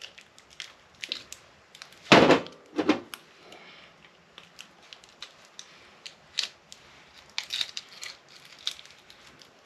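A hand tool cutting and scraping at the plastic and tape wrapped around a UPS transformer's copper windings: irregular clicks, scrapes and crackling, with a loud crack about two seconds in and a smaller one just under a second later.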